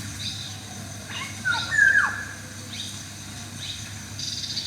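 Several birds calling, with short chirps throughout, one louder call just under two seconds in that falls in pitch, and a rapid trill starting near the end.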